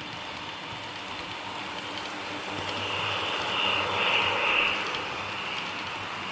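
Double-stack freight train rolling past, a steady rail noise that swells louder about three to five seconds in, with a higher ringing tone over it at the loudest point.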